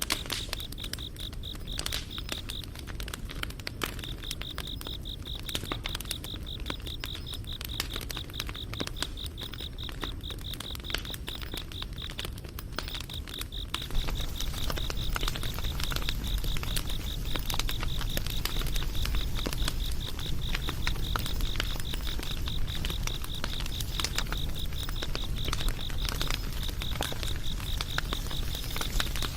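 Campfire crackling with scattered sharp pops over a low rumble, while insects chirp steadily in rapid, even pulses at a high pitch. The fire gets louder about halfway through.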